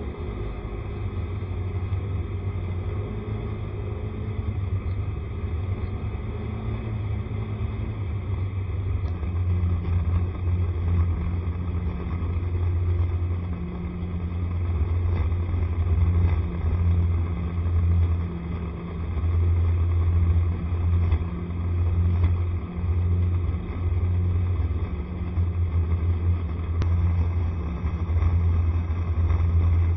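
Honda SCR110 scooter underway, heard from on board: a steady low rumble that swells and dips, getting louder and more uneven about halfway through.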